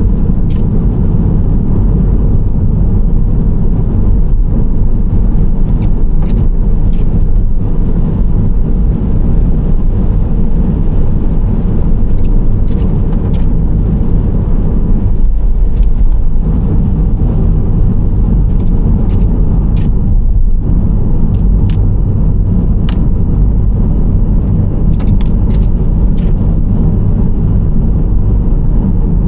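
Nissan Serena C25 minivan driving steadily: a loud, even road and tyre rumble with engine hum, broken by short sharp ticks every second or two.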